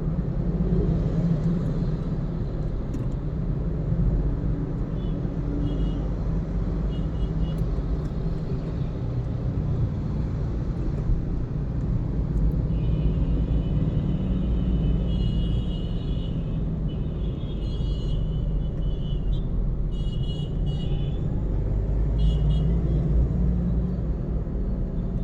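A car is being driven in traffic, with steady road and engine rumble. In the second half, short high-pitched beeps or horn toots sound repeatedly.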